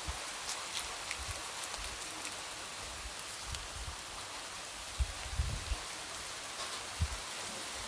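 Light rain tapping against a window: a steady hiss with many scattered drop ticks, and a few dull low thuds about five and seven seconds in.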